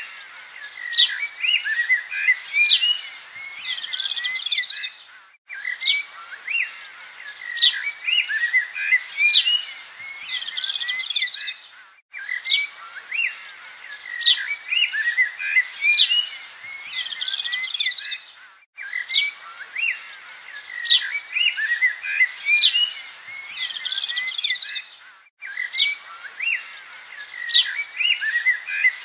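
A recording of small songbirds chirping and trilling, played as a loop that repeats about every six and a half seconds with a brief dropout at each restart.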